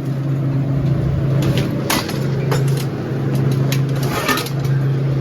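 A steady low mechanical hum that breaks off briefly twice, with clattering knocks and rattles around two and four seconds in.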